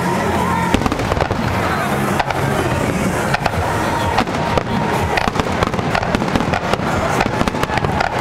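Aerial fireworks bursting in rapid succession, a dense run of booms and crackles that comes thicker from about halfway through.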